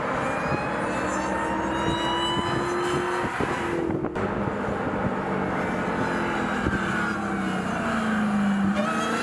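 Supercharged 6.2-liter V8 of a 2021 Dodge Charger SRT Hellcat Redeye accelerating hard, its pitch rising in long sweeps. There is a short break about four seconds in.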